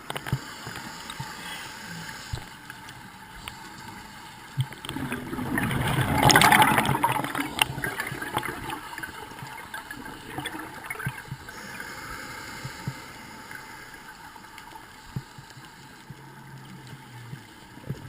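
Water gurgling and bubbling with scattered small clicks, and a louder rush of bubbles swelling about five seconds in and fading by about eight seconds, like a scuba diver's exhaled bubbles.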